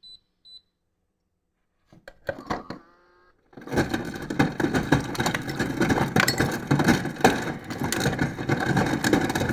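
Refrigerator door dispenser delivering crushed ice: a few clicks and a short hum about two seconds in, then from about three and a half seconds a loud continuous grinding rattle of the ice crusher with ice chips clattering into a glass.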